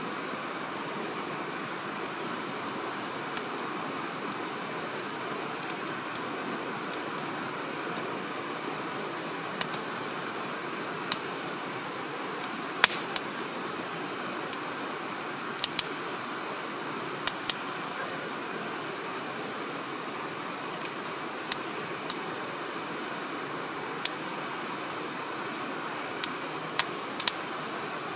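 Firewood burning in a fire grill: a steady crackling hiss with sharp pops from the burning wood scattered irregularly through, most of them in the second half.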